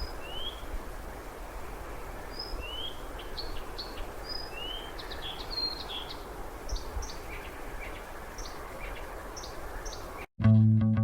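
A wild bird calling repeatedly with short high chirps and quick rising notes over a steady background hiss. Near the end the sound cuts off and guitar music begins.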